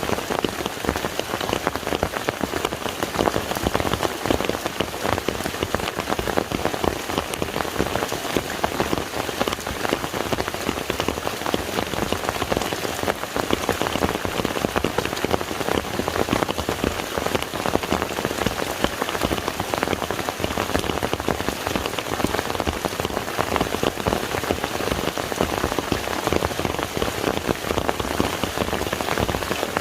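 Steady rain falling onto the surface of a lake: a dense, even patter of countless drops.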